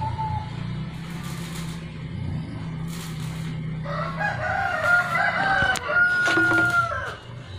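A rooster crowing once, a long call of about three seconds starting about halfway through, over a steady low hum.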